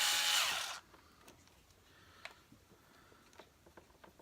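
Electric drill-driver running and cutting off under a second in, as screws are undone on a vacuum cleaner, followed by scattered faint light clicks.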